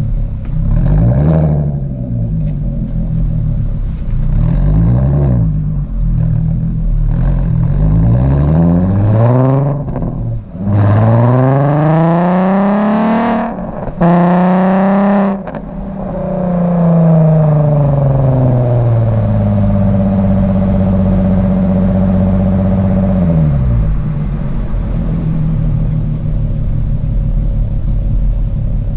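MK4 Golf R32's 3.2 VR6 engine through a Milltek aftermarket exhaust. It is blipped three times, then revved in a long climb with a brief cut near the top. The revs fall back, hold steady for a few seconds and drop to a low, steady run.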